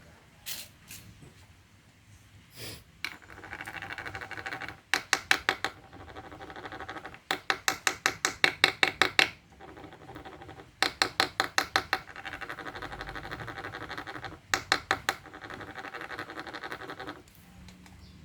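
A fighting-beetle goad stick being rubbed to stir the rhinoceros beetles: a steady rasp, broken by four runs of rapid, evenly spaced squeaky ticks.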